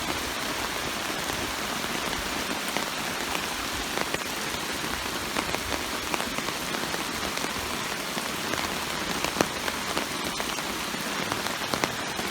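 Rain from a sudden summer downpour (yūdachi) pouring down steadily as an even hiss, with scattered sharper ticks of single drops hitting.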